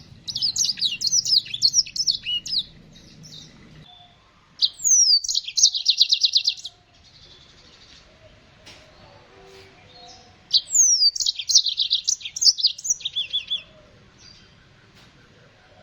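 Small songbirds singing in three bursts of a few seconds each: fast, high twittering trills with quick downward-sweeping notes, with short pauses between the bursts.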